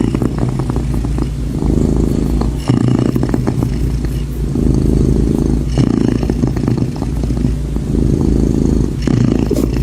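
Domestic cat purring loudly close to the microphone: a steady low rumble that swells and dips about every second or so with each breath in and out.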